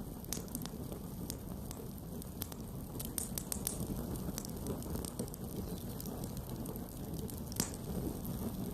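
Wood campfire burning: a low steady rumble with scattered crackles and pops, a quick flurry of pops about three seconds in and one sharper pop near the end.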